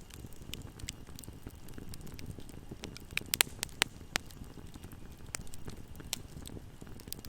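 Wood fire burning in a fireplace: a steady low rumble of the flames with scattered sharp crackles and pops, a quick cluster of the loudest snaps about halfway through.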